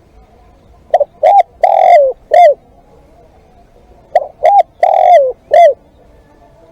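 Spotted dove cooing: two phrases of four notes each, a few seconds apart, with the third note the longest and falling in pitch.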